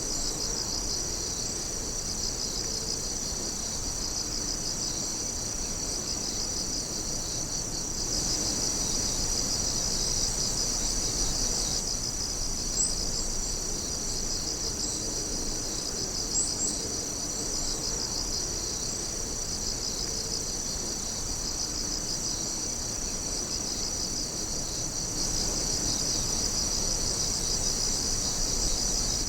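A chorus of night insects chirping and trilling continuously, high-pitched and dense with a pulsing texture. A few short, sharp single chirps stand out above it, twice in the middle stretch.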